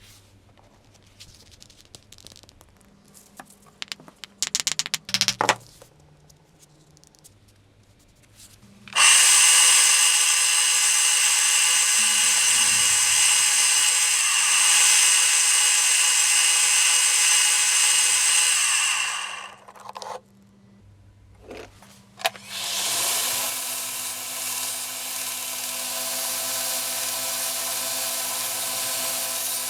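Handheld electric power tool running at a steady high-pitched whine for about ten seconds, stopping, then starting up again a few seconds later, after some quiet handling and a few clicks.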